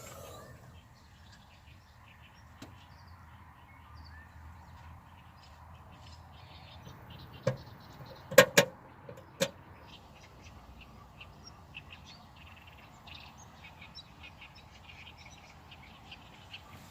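Quiet outdoor background with scattered faint bird chirps. It is broken about halfway through by a handful of sharp clicks or knocks, two of them in quick succession.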